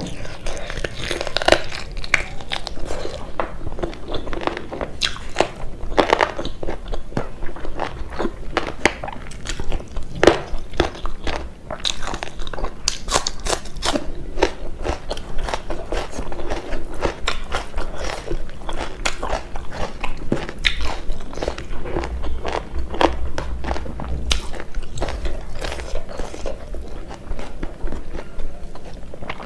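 Close-miked eating sounds of a person chewing meat and rice eaten by hand: steady wet chewing and lip smacks with many small, sharp, crunchy clicks.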